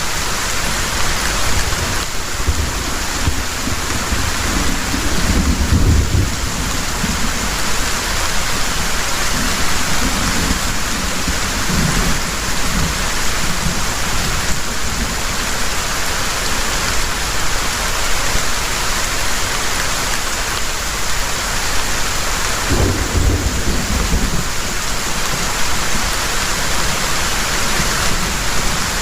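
Heavy rain pouring steadily, with low rolls of thunder: a longer one in the first several seconds and a shorter one a little after the middle.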